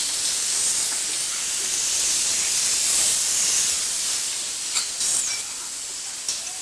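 A steady hiss, with a few faint clicks near the end.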